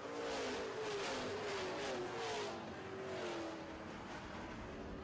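A pack of dirt-track super trucks racing past, several engines at full throttle with pitches that rise and fall together as they pass. The loudest passes come in the first half, then the engine sound fades and falls in pitch as the pack moves away.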